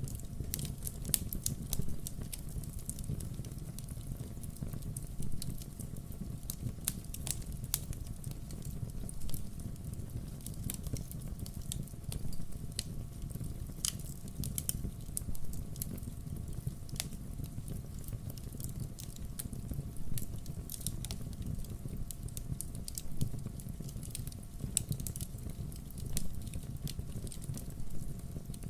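Firewood logs burning, crackling with irregular sharp pops and snaps over a low, steady rumble of the fire.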